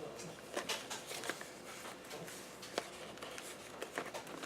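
Paper and cardstock rustling, with irregular light clicks and taps as handmade craft pages and cards are handled; one sharper click a little under three seconds in.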